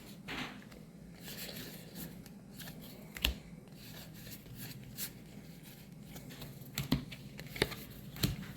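Hands handling Magic: The Gathering cards and booster-pack wrappers: soft rustling with scattered sharp taps and clicks, several of them near the end.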